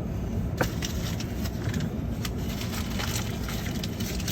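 Steady low engine rumble with scattered sharp clicks and crackles over it.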